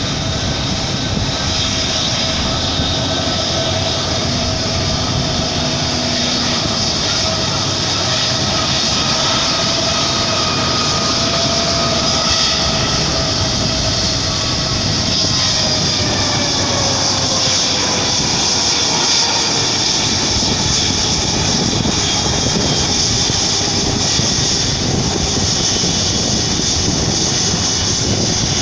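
Airbus A330-200 jet engines running loud and steady as the airliner moves past. Its engine whine falls in pitch from about halfway through.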